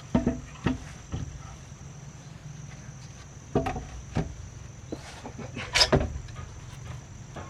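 Scattered wooden knocks and clunks, about seven in all, the loudest about six seconds in, over a steady high-pitched insect drone.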